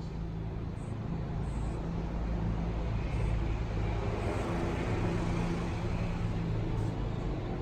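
An engine running steadily, a low drone with a hiss over it.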